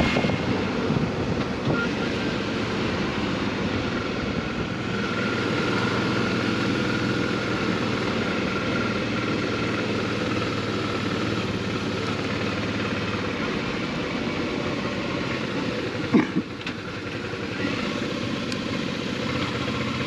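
Suzuki V-Strom motorcycle's V-twin engine running steadily under way, mixed with steady wind and road noise. A single sharp knock about sixteen seconds in, after which it is a little quieter.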